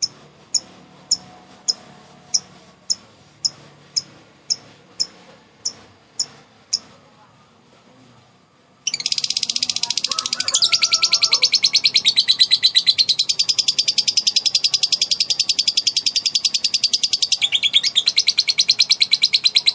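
Female lovebird calling: first a series of single sharp, high ticking chirps about every half second, then after a brief pause, about nine seconds in, a long unbroken rapid chattering trill, the 'ngekek' song.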